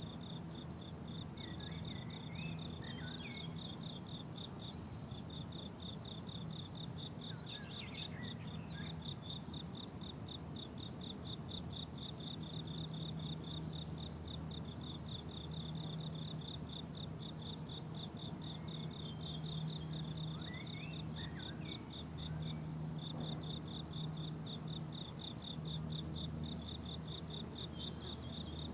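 Crickets chirping in a rapid, rhythmic pulse of about three chirps a second, with brief pauses now and then.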